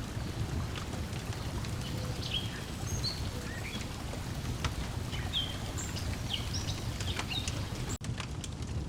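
Layered nature ambience: a wood fire crackling with frequent short pops, small birds chirping in brief high calls, over a steady low wash of lake water lapping. The sound drops out for an instant about eight seconds in.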